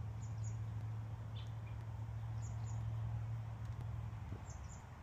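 Faint, high bird chirps, coming in quick pairs about every two seconds, over a steady low hum that fades out about four seconds in.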